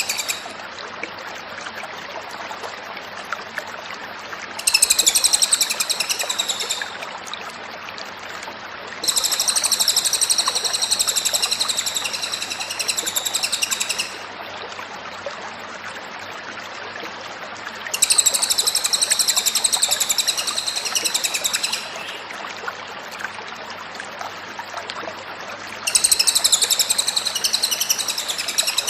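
Cililin songbird singing in long bouts of rapid, high-pitched repeated notes, each bout lasting two to five seconds with pauses of a few seconds between them, over a steady hiss.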